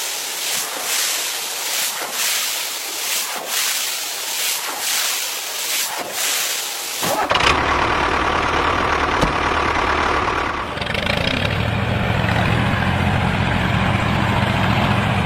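A pulsing hiss for about seven seconds, then a truck engine sound that starts suddenly and runs steadily to the end.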